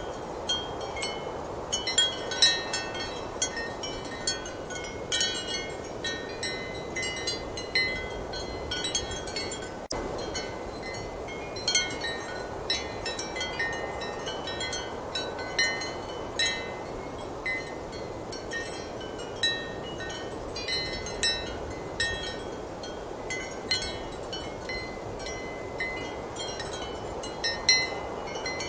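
Ceramic wind chimes clinking irregularly, several strikes a second at times, over a steady rush of strong wind.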